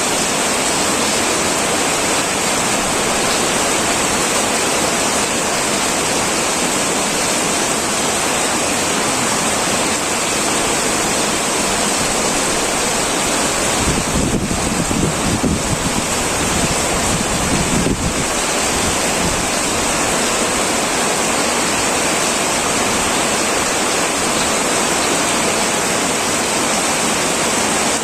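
Heavy rain pouring steadily onto a tin roof, a dense even hiss. About halfway through, a low rumble swells under the rain for a few seconds and fades.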